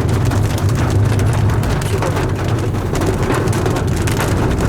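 Car driving on the road: a steady low rumble of engine and road noise, with faint crackling over it.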